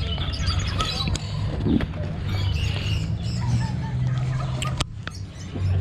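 Small birds chirping and twittering in quick, repeated calls over a steady low hum.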